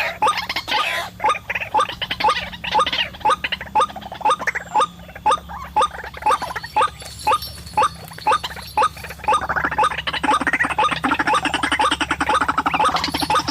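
White-breasted waterhen calling: a long run of short, repeated rising notes, about three a second, that turns into a faster, denser chatter about nine seconds in.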